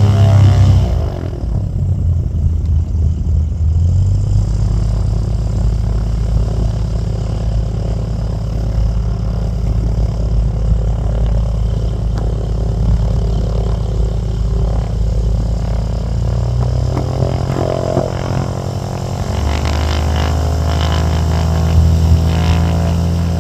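Aircraft engines droning steadily during a take-off, with deep steady tones that shift in pitch a few times.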